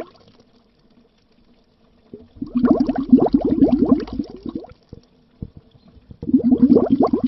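Bubbles gurgling under water in bursts: a quiet start, about two seconds of dense bubbling, a short lull, then bubbling again near the end.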